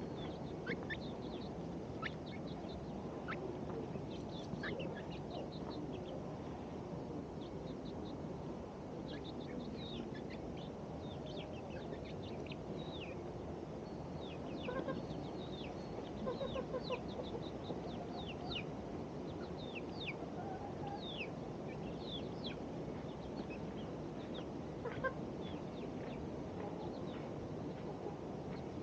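Chickens clucking, with many short, sharp, falling chirps from small birds over a steady background hiss.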